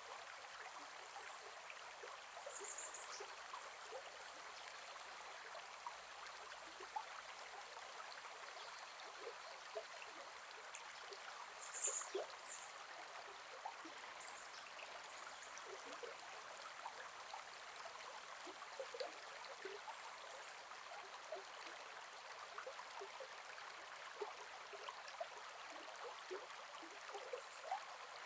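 Gentle forest river flowing: a steady rushing with many small splashes and gurgles. A few short high chirps sound about three and twelve seconds in.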